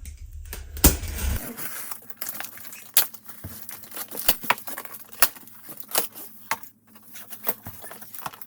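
A box of paddock stand parts being unpacked: packaging tears and crinkles, and loose parts give many sharp, irregular knocks and clinks.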